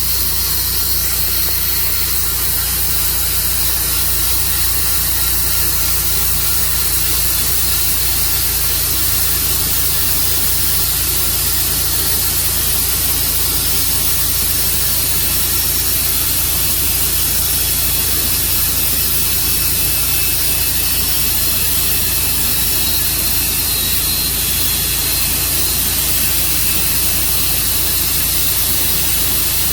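Tru Cut sawmill running steadily: a constant engine drone under a strong, even hiss.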